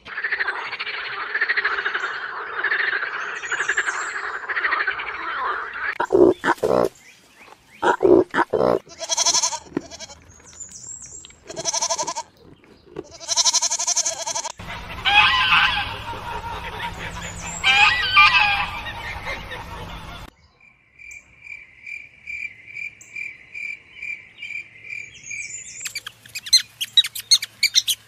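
A series of animal calls in turn. First toads calling in a dense chorus, then a run of separate loud calls. Goats then bleat for several seconds, a steady high pulsing trill follows, and near the end young hamsters squeak rapidly.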